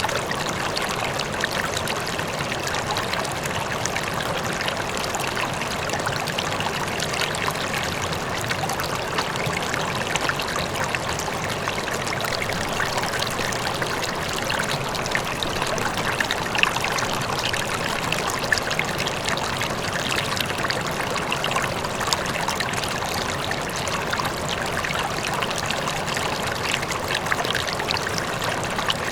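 River water flowing steadily over rocks, a continuous babbling rush with small splashes scattered through it.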